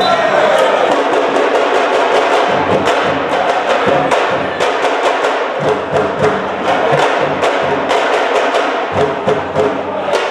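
Fast, dense drumming with many sharp strikes in quick succession over a continuous din.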